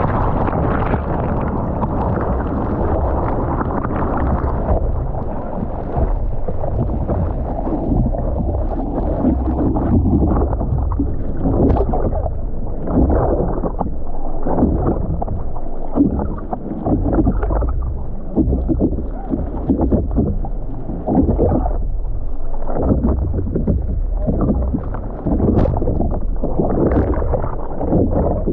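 Ocean water sloshing and splashing with a muffled low rumble, rising and falling in irregular surges.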